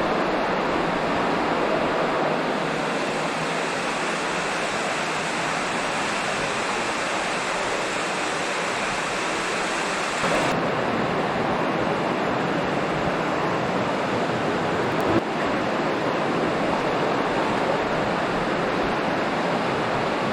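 Steady rush of Laurel Run's creek water flowing through a concrete tunnel.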